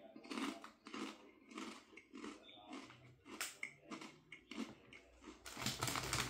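A person biting into and chewing crunchy white cheddar Popcorners popcorn chips, a crunch about every half second, thicker near the end.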